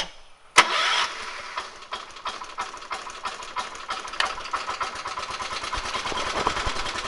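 John Deere 210 garden tractor engine started from cold: it fires about half a second in, is loud briefly, then settles into a steady idle with a rapid, even ticking beat. It runs smoothly.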